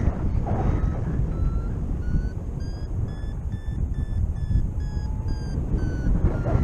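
Paragliding variometer beeping in short repeated tones, the pitch rising then falling back: the climb tone that signals lift in a thermal. Steady wind noise on the microphone runs underneath.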